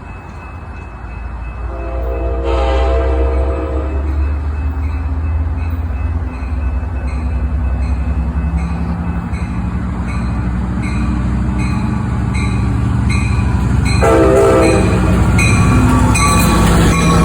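Approaching train: a diesel locomotive's low rumble growing louder, its horn sounding about two seconds in and again near the end, over a bell ringing steadily.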